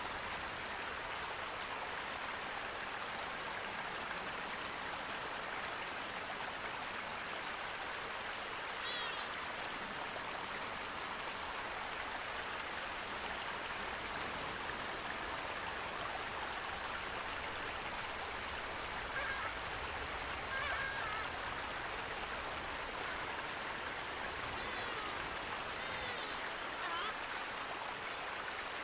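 Running water rushing steadily, with a few short, faint bird chirps at scattered moments.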